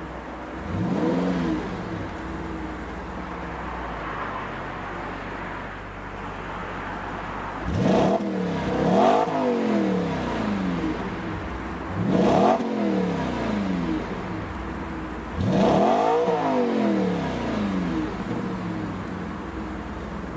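2015 Audi RS5's 4.2-litre V8 and exhaust idling, then revved: a light blip about a second in, then several sharp revs that climb quickly and fall back to a steady idle.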